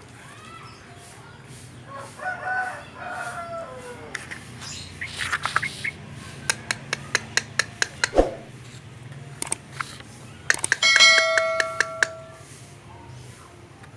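Songbird calls: short warbling notes, then a run of sharp clicking calls, then a loud held ringing whistle near the end.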